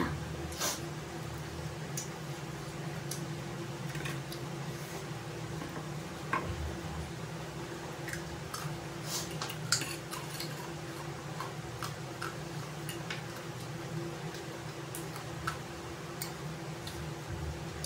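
Close-up eating sounds of two people chewing food picked up by hand, with scattered short clicks, over a steady low hum.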